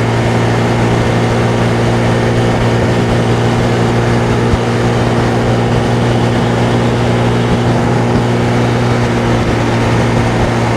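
Honda Navi's small single-cylinder four-stroke engine running at a steady, unchanging speed while riding, with wind buffeting the microphone.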